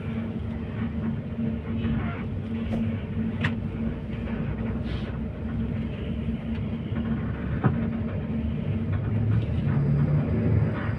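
Steady rumble of a coach bus on the move, engine drone and road noise, with a couple of brief clicks or knocks about three and a half and seven and a half seconds in.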